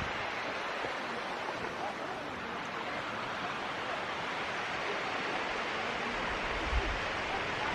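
Steady rushing of running water, an even hiss that holds without change; a soft low thump comes near the end.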